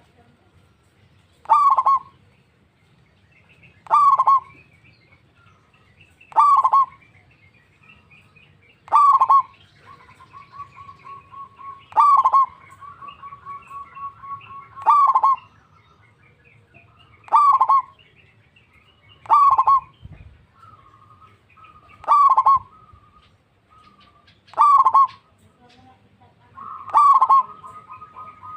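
Zebra doves (perkutut) calling: a loud short call repeated at an even pace about every two and a half seconds, eleven times. A quieter rapid string of short notes from another dove runs under the calls around the middle and again near the end.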